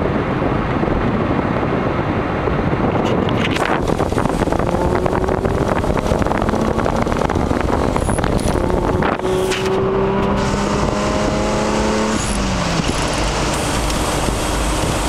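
Engine of a 1998 Toyota 4Runner heard from inside the cab while accelerating onto the freeway, over heavy road and wind noise. The engine note climbs slowly, then drops about twelve seconds in, as at a gear change.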